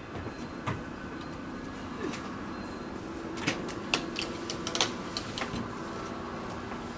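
A scattered series of light clicks and knocks, most of them between about three and five seconds in, over a steady low hum.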